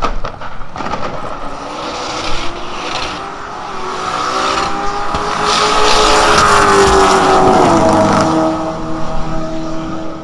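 A car's engine at high revs under hard acceleration, getting louder to a peak about two-thirds of the way in, then dropping in pitch as it goes past.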